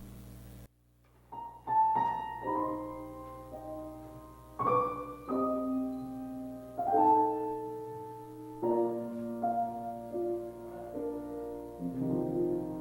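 Piano playing a slow series of chords, each struck and left to ring and fade. A low steady hum cuts off suddenly under a second in, before the piano starts.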